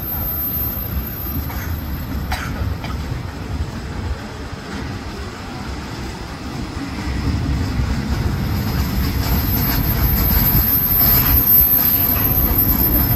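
Diesel-hauled passenger train pulling into the station, the locomotive and carriages rolling past along the platform. The rumble grows louder from about the middle onward as the train comes alongside.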